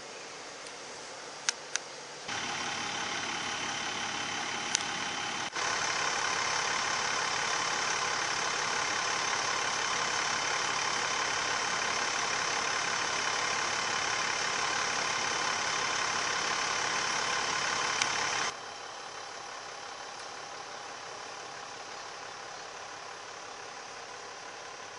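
Sand truck running steadily. It jumps louder about two seconds in and again a few seconds later, holds, then drops back to a lower steady level with about six seconds to go. A few sharp clicks sound over it.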